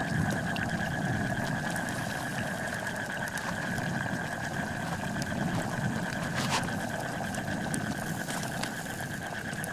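Wood fire burning under a pan of chicken gravy, with a low steady rumble and scattered sharp crackles and pops, over a steady high tone in the background.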